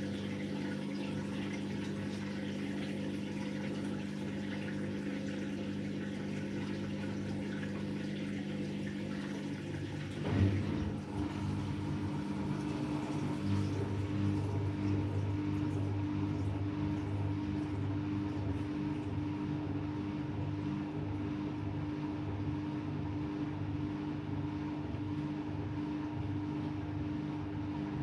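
AEG Lavamat Turbo washer-dryer running a wash cycle: a steady motor hum with water noise. About ten seconds in there is a brief knock, and the motor settles into a different, pulsing hum.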